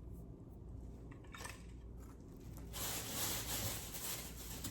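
Dry nest material (moss, pine needles and twigs) rustling and crackling as small sticks are pushed and twisted into a handmade bird's nest: a brief rustle about a second and a half in, then a louder, longer rustle for nearly two seconds near the end.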